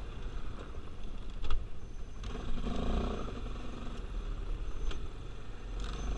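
ATV engine running as it is ridden slowly and turned around, with a sharp knock about one and a half seconds in.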